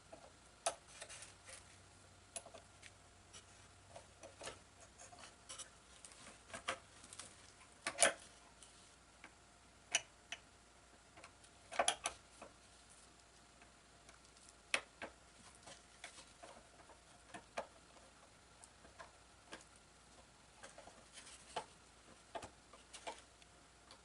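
Irregular small clicks and taps of screws and a screwdriver being handled while fitting the electric motor to its mount, with a few sharper knocks about 8 and 12 seconds in.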